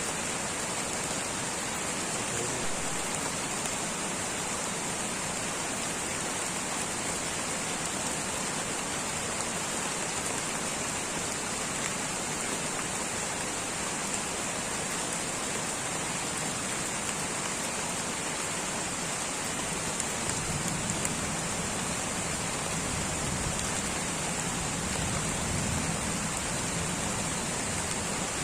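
Light rain falling steadily, an even patter of drops with a constant high hiss. A low rumble rises briefly in the last third.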